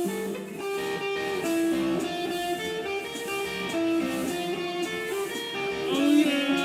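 Electric guitar playing a melody, note by note, with a bent note about six seconds in.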